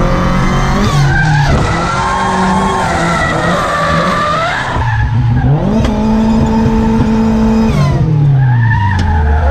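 Supercharged Volvo B230 "red block" four-cylinder drift car at full effort, its revs climbing and falling as it slides, with tyres squealing. The revs hold steady for a couple of seconds, drop about eight seconds in, then climb again near the end.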